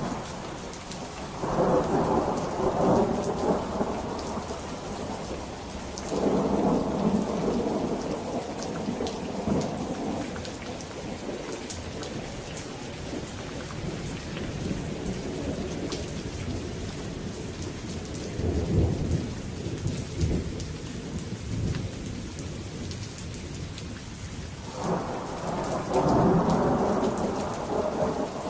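Steady rain falling, with rolls of thunder rumbling over it: one begins about a second and a half in, another about six seconds in, a lower one in the middle, and a last one near the end.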